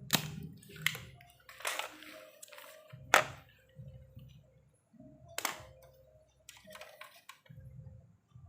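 A series of sharp clicks and knocks, the loudest a little after three seconds in, over a faint low hum.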